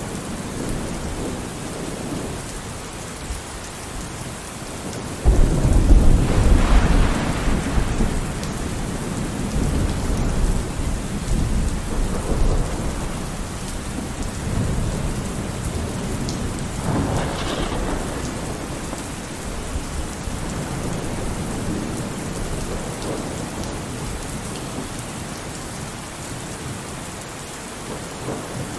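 Steady heavy rain on a surface with thunder: a loud clap about five seconds in that rolls on as a low rumble for several seconds, and a second, sharper crack a little past the middle, the rumble fading toward the end.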